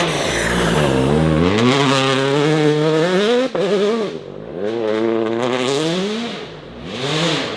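Rally car engine revving hard: the pitch climbs for about two seconds, breaks off suddenly about three and a half seconds in, then drops and climbs again before falling away, with a short burst of revs near the end.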